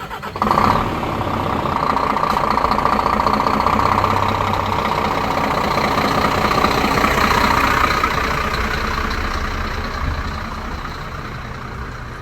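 Scania G440 4x4 truck's 440-hp diesel engine running steadily. It comes in abruptly about half a second in and eases off over the last few seconds.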